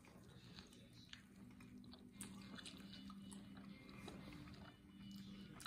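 Faint close-up eating sounds: a man chewing and smacking as he bites meat off chicken wings, with scattered small wet clicks.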